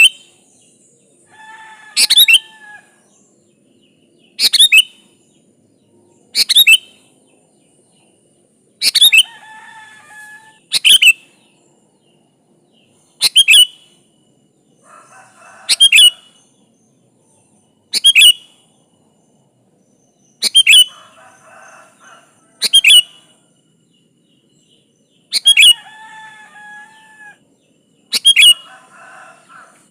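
Sooty-headed bulbul singing. A loud, sharp, falling note comes about every two seconds, a dozen times, and softer warbled phrases fill the gaps between them.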